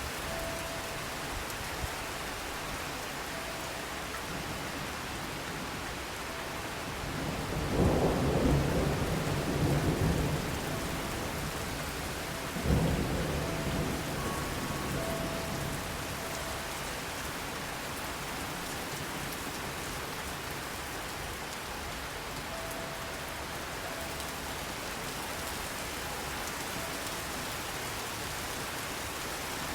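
Steady rain with two peals of thunder: a low rumble that swells about a quarter of the way in and rolls away over several seconds, then a sharper crack a little before halfway that dies away quickly.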